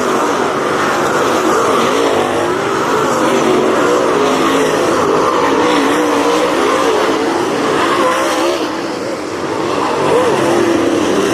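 Several race car engines running hard on the track together, their pitch rising and falling as the cars accelerate and back off.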